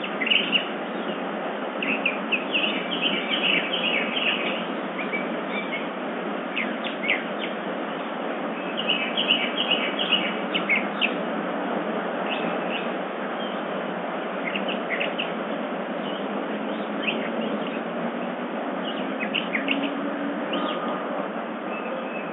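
Birds chirping in scattered clusters of short calls over a steady background hiss.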